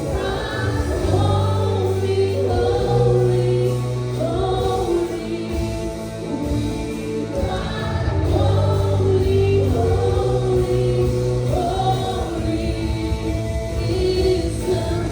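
Gospel worship music: a choir of voices singing slow, held phrases over a band with sustained bass notes.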